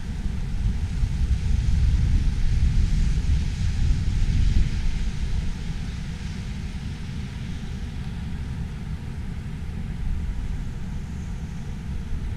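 Snowstorm wind buffeting the microphone: a gusty, uneven low rumble over a steady hiss, a little louder in the first half.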